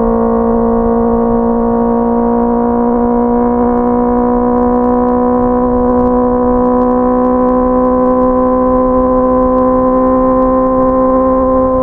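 Honda CBR650R motorcycle's inline-four engine running under way, holding a steady note that rises slowly and evenly in pitch as it gains speed.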